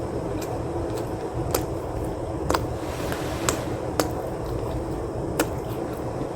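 Close-miked chewing of mushroom and cheese pizza, with a sharp mouth click or smack every second or so.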